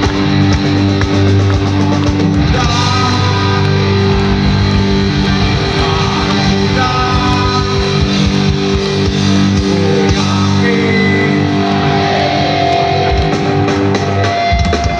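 Live rock band playing loudly, led by electric guitar, with little or no singing.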